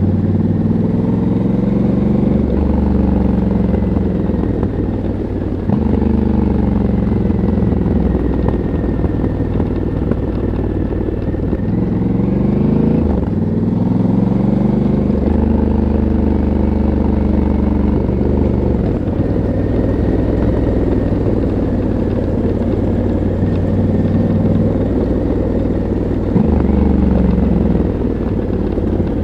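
Stock exhaust and engine of a Honda CRF1100L Africa Twin Adventure Sports, its 1084 cc parallel-twin, under way. The pitch climbs and drops as the throttle is worked, with several abrupt shifts in pitch.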